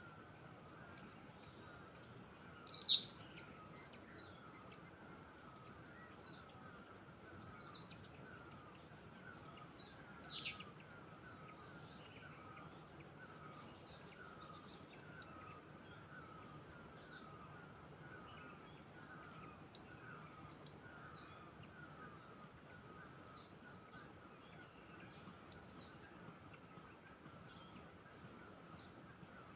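A bird repeating a short, high, falling call about every second and a half, louder a few times early on, over a steady background trill from other birds or insects.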